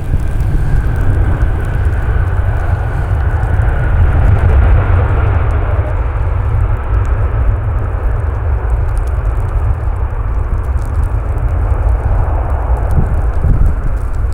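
Jet airliner engines with a whine that slowly falls in pitch over the first few seconds, over a steady heavy low rumble.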